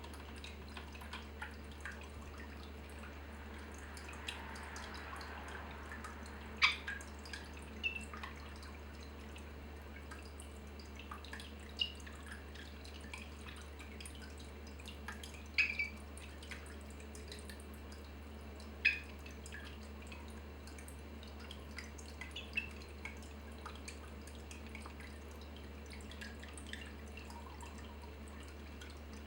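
Water dripping, single drops plinking irregularly every few seconds over a faint steady low hum.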